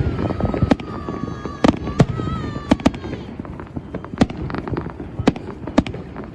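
Many New Year's fireworks going off, sharp bangs and cracks at irregular intervals. Over the first three seconds a long whistling firework sounds, its tone sagging slightly before it cuts off.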